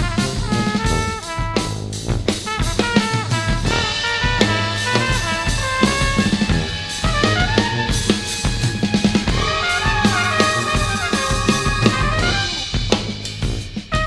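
Jazz played by a small brass ensemble: a drum kit plays busily with snare, rimshots and bass drum under held keyboard and horn lines and a low bass part.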